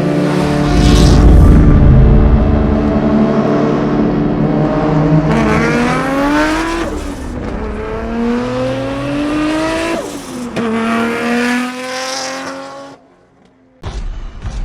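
A Nissan R32 Skyline GT-R's RB26 straight-six with a big single turbo, running loud through a titanium straight-pipe exhaust. After a hard, high-revving stretch, it pulls up through the gears three times, the pitch rising steadily and then dropping sharply at each upshift.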